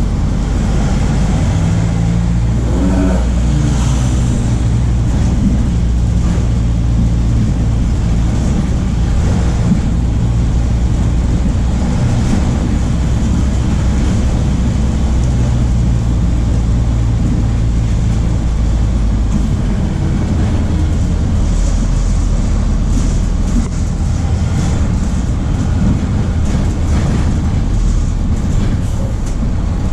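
MAN D0834 four-cylinder turbodiesel of a VW 17.230 OD bus running loud and steady under way. Its note rises briefly about three seconds in and shifts in pitch a couple of times later.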